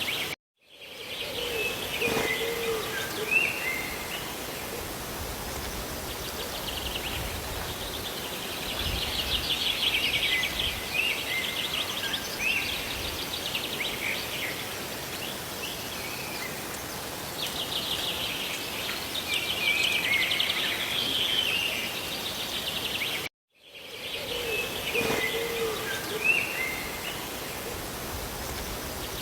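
Steady hiss of rain with small birds chirping and trilling over it. The sound cuts out completely for a moment just after the start and again about 23 seconds in, where the recording loops and the same bird calls repeat.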